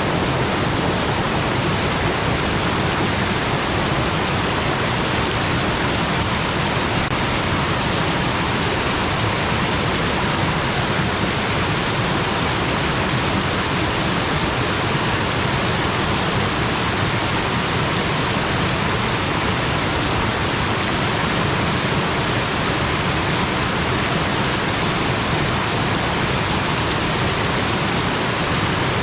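Waterfall pouring between rocks: a loud, steady rush of falling water with no breaks.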